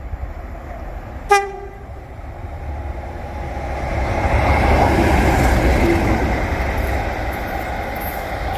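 Train sounding one short horn toot, then running past with a rising rush and rumble that is loudest about five seconds in and holds until the sound cuts off suddenly at the end.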